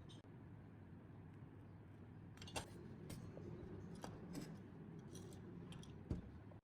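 Faint scattered clicks and taps of small metal parts and tools being handled, over a low steady hum.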